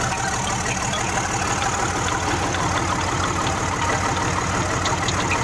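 Isuzu 6BG1 six-cylinder diesel engine idling steadily, with faint light ticking over the running.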